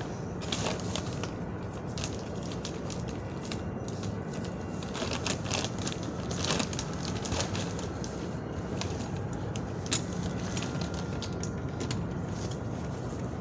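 Steady low hum of a subway station with scattered crackles and rustles, the busiest stretch about halfway through.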